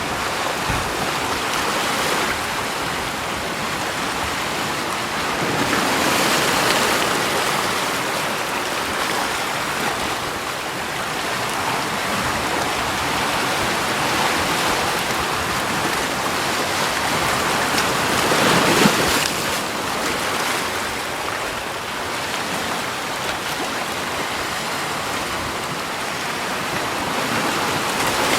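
Moving water: a steady rush of water with two louder swells, about six seconds in and again near nineteen seconds.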